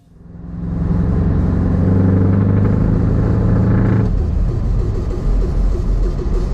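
Heavy truck engine running: a steady low drone that fades in, turning into a rougher, uneven rumble about four seconds in.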